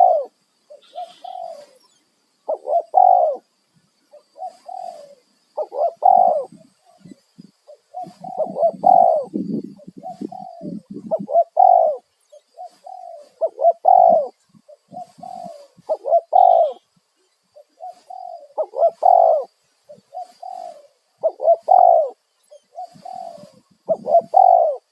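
Spotted doves cooing in a steady series of repeated phrases, one every second or two.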